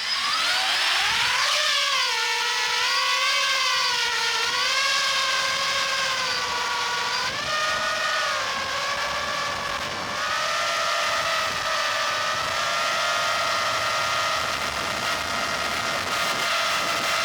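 Six-inch FPV quadcopter's four brushless motors (Brotherhobby 3008 1500kv) spinning tri-blade propellers in flight, a pitched whine rising and falling with throttle, then holding steady from about ten seconds in.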